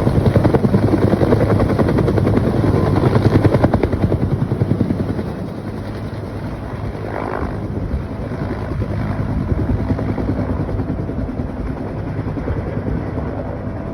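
Helicopter rotor chop, a fast steady beating of the blades, loud for the first five seconds and then somewhat quieter.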